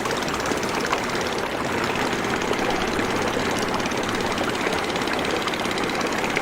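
Motorboat engine running steadily, a dense, even chugging.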